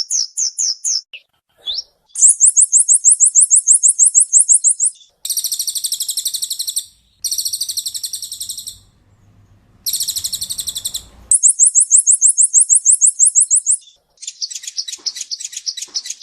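Purple-throated sunbird (kolibri ninja) singing rapid, high-pitched trilled phrases, the fast 'tembakan' bursts prized by bird keepers. There are several bursts of about two to three seconds each, about ten notes a second, separated by short pauses.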